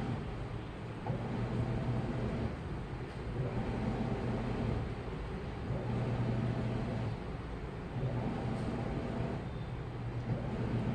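Washing machine running, its motor humming in stretches of about two to three seconds with short lulls between, the drum turning in bursts.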